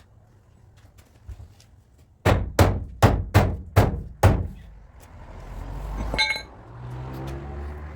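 Six quick hammer blows on car body sheet metal, about two and a half a second, each ringing briefly. A short metallic clink follows a couple of seconds later.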